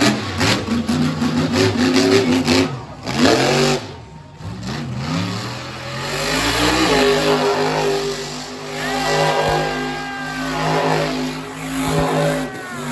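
Terminal Velocity monster truck's engine revving hard in a freestyle run: choppy bursts of throttle in the first few seconds, a couple of rising and falling sweeps in pitch, then held at high revs for the second half.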